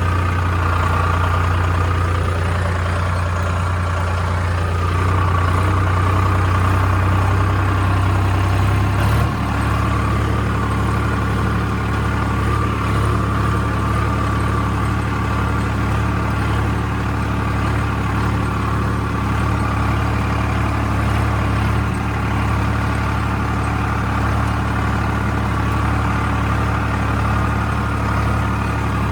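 Sonalika DI 35 tractor's diesel engine idling steadily, its speed stepping up slightly about nine seconds in and then holding.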